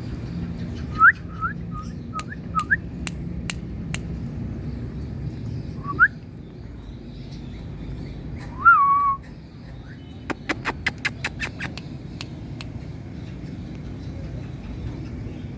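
Pet Indian parakeet whistling: a string of short rising whistles, then one louder, longer whistled call about nine seconds in. A quick run of sharp clicks follows about ten seconds in, over a steady low hum.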